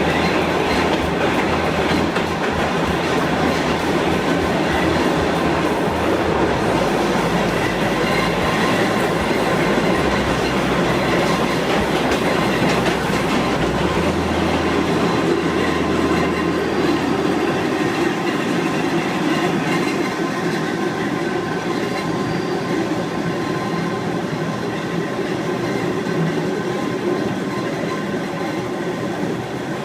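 Kurobe Gorge Railway's narrow-gauge trolley train running along the track: a steady, loud rumble of wheels on rails, easing off a little partway through.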